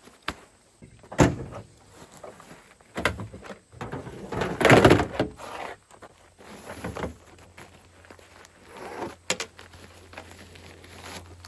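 A run of clunks and knocks, with a loud door-like thud about five seconds in. A low steady hum sets in about seven seconds in.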